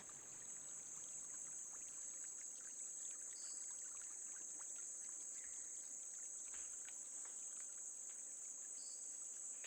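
Faint rainforest night ambience: a steady, high-pitched insect trill like crickets, with scattered faint ticks and a couple of short chirps.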